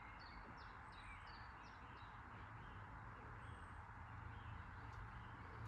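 Faint ambience: a small bird chirping in a quick series of short falling notes, about three a second, fading out about two seconds in, over a steady low hum.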